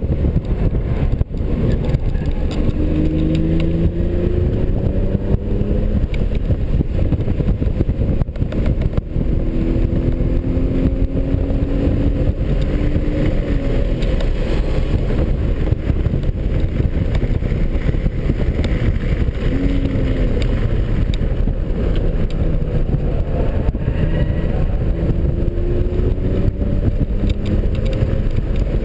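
2003 BMW 330i's 3.0-litre straight-six heard from inside the cabin under hard driving, its pitch climbing several times and falling back in between, over a heavy rumble of road and wind noise.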